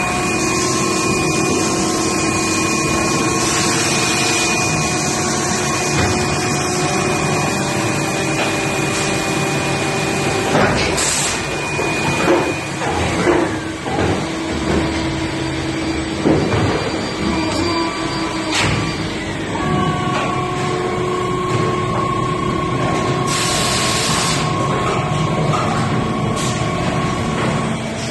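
Automatic plastic injection moulding machine running, with a steady hum carrying several held tones. A series of sharp knocks and clanks comes in the middle, and a hiss lasting about a second comes about two-thirds of the way through.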